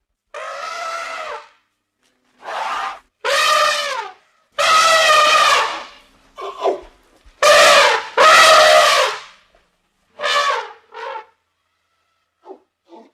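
Elephant trumpeting: a series of about eight loud, brassy calls, each lasting up to about a second and a half, separated by short pauses.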